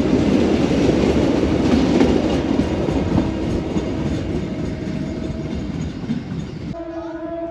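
A train of flat wagons rolling past, its wheels clattering over the rail joints in a dense rumble that slowly fades as it moves away. Near the end the rumble cuts off abruptly and a short steady tone is heard.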